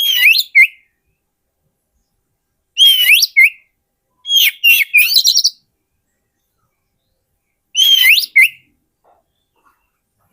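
Oriental magpie-robin singing: four short bursts of the same loud whistled phrase, a quick rising whistle followed by a lower note, with pauses of one to two seconds between. The third burst, about four seconds in, is longer and more jumbled.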